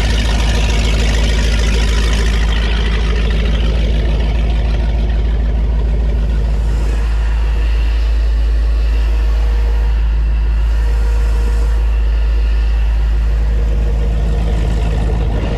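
A Donzi Classic 22 sport boat's engine running steadily and loudly, with a high hiss that fades about two seconds in.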